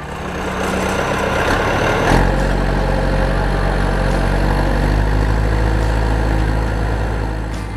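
Engine idling steadily with a low, even rumble that becomes heavier about two seconds in.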